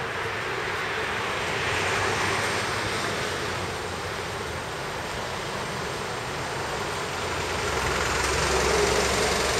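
A Sanyo Electric Railway train running on the elevated viaduct overhead: a steady rushing rumble that swells about two seconds in and again near the end.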